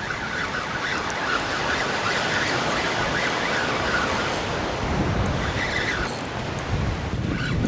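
Wind buffeting the microphone over ocean surf, a steady rushing noise with a hissing upper band that fades about six seconds in.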